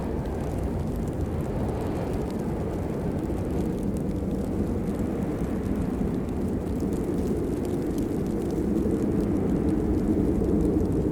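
Steady heavy rain: a dense, low-pitched wash of noise with faint scattered drop ticks above it, growing slightly louder near the end.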